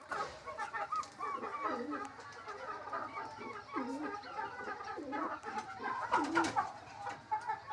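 A flock of birds calling together: many short high chirps overlapping throughout, with a lower dipping call about every second or so.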